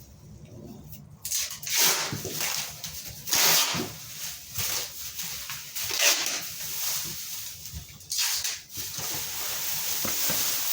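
Irregular rustling and crinkling bursts from plastic sheeting and masking tape being handled while the area is masked off.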